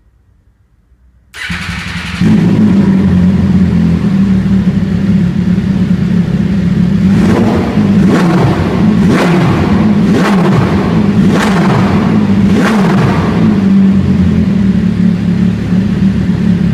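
MV Agusta Dragster 800's three-cylinder engine with a QD aftermarket exhaust starting up about a second and a half in and settling into a steady idle. Partway through it is revved six times in quick throttle blips about a second apart, each falling back, then it idles again.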